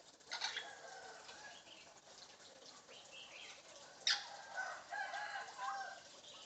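African grey parrot calling in two bouts: a sudden call that settles into held whistled notes near the start, then a louder sharp squawk about four seconds in, followed by a string of wavering notes.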